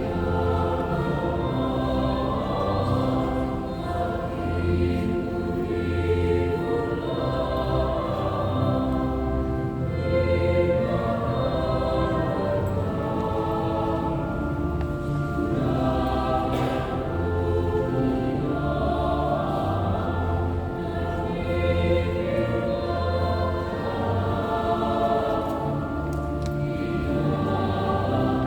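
Choir singing in parts, with low sustained bass notes changing every second or so beneath the voices.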